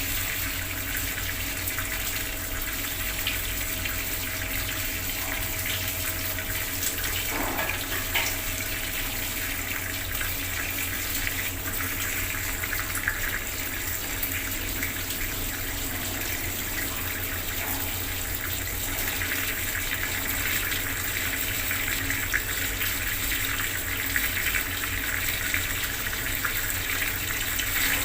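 Bathroom water tap running steadily, the stream splashing and gurgling into a basin or bucket.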